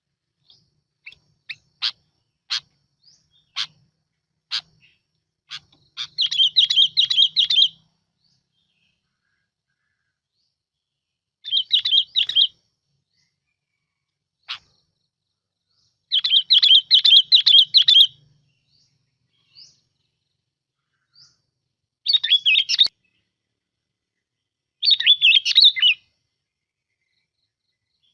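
Bulbul (chim bông lau) song from a lure-call recording: a few scattered single chirps, then five bursts of rapid, bubbling chirped phrases a few seconds apart.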